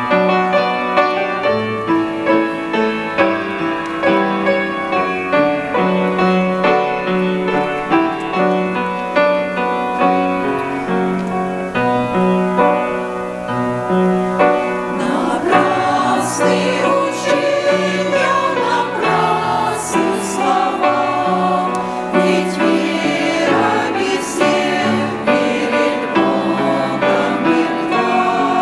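A church choir singing a hymn in several voice parts, with sustained chords that change every second or so.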